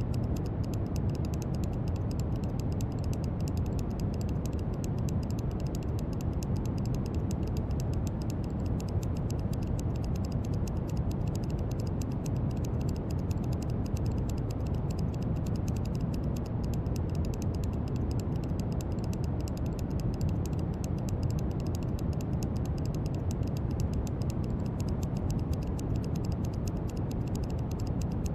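Steady brown noise: an even, deep hiss weighted heavily to the low end, with a faint fine crackle in the top.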